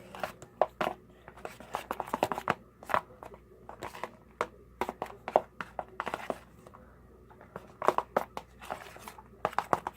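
A spoon stirring and scraping a thick, sticky slime mixture of glue, lotion and shaving cream in a bowl, giving irregular clicks, taps and wet squelches.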